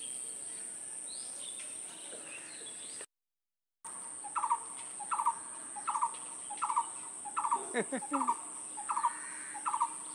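A bird calling from a tree: the same short, falling call repeated about twice a second from about four seconds in. The bird is green, and the speaker can't say whether it is a parakeet or some other bird. A steady high hiss runs underneath, and the sound drops out briefly about three seconds in.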